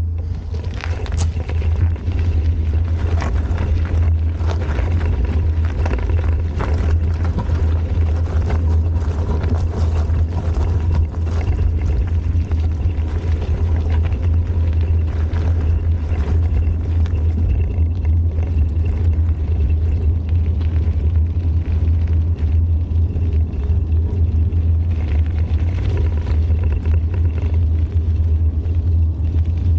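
Steady low rumble of riding a bicycle along a trail, picked up by a bike-mounted camera: wind on the microphone and tyres rolling over the path, with many small clicks and rattles scattered through it.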